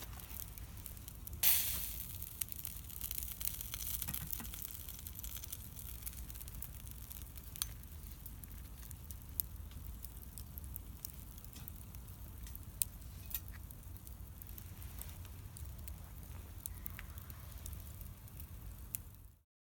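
Wood bonfire crackling, with scattered sharp pops and a louder rush of noise about a second and a half in. The sound cuts off abruptly just before the end.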